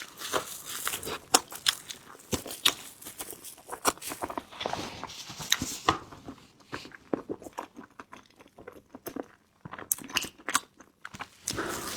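Close-miked chewing of a soft, sticky qingtuan rice dumpling: irregular wet mouth smacks and clicks.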